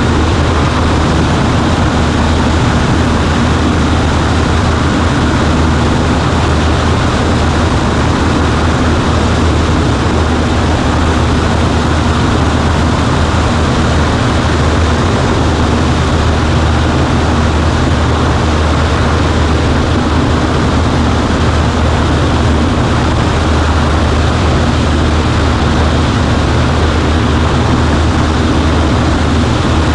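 Steady drone of a Cessna 140A's piston engine and propeller heard from inside the cockpit, holding a constant power setting with a low hum under an even rush of noise.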